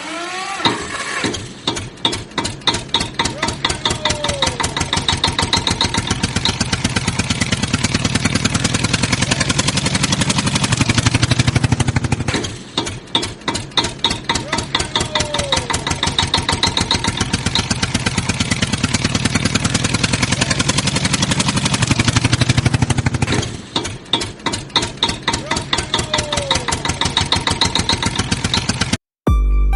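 Tractor engine sound effect: an engine chugging that starts with slow, separate beats and speeds up to a steady run. The same engine clip repeats three times.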